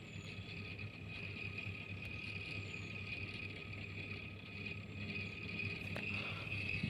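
PROFAN RHF700 ceiling fan running steadily: a low motor hum with a steady higher whine above it.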